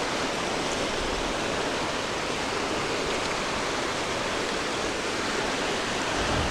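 Steady rush of a waterfall on a river.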